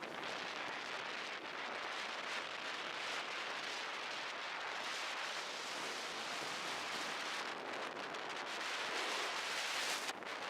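Steady rushing of wind on the microphone aboard a sailboat under way, with a short drop in the hiss just before the end.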